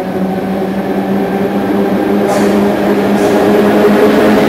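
A train pulling into an underground station platform: a steady electric hum with overtones under rolling noise, growing steadily louder as the train comes in and passes.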